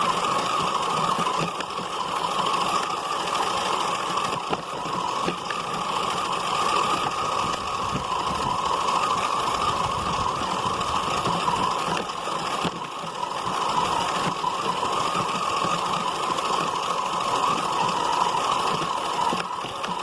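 Radio-controlled car running, a steady whining drone from its motor and gears with a couple of brief dips near the middle and end.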